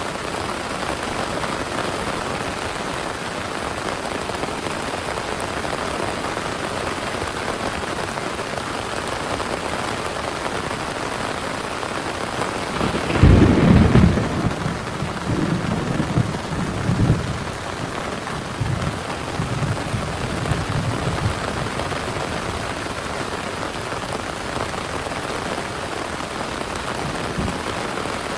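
Heavy rain falling steadily, with a loud thunderclap about halfway through that rumbles on, rising and fading, for several seconds.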